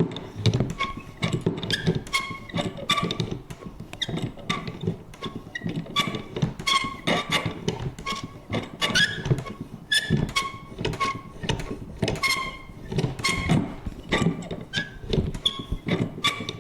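Vintage paper punch worked over and over: a quick, uneven run of clacks, about two a second, many with a short squeaky creak.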